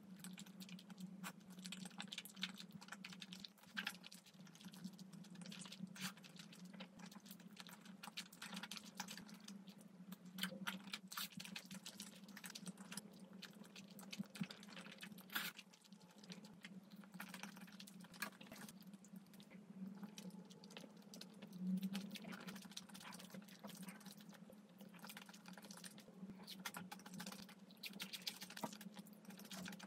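Close-up eating sounds: chewing soft, chewy rice cakes in a thick cream sauce, with many small wet clicks and smacks of the mouth. A steady low hum runs underneath.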